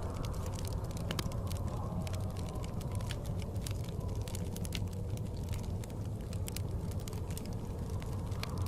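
Wood fire in a fireplace crackling, with many irregular small pops and snaps, over a steady low rumble of blizzard wind that swells slowly.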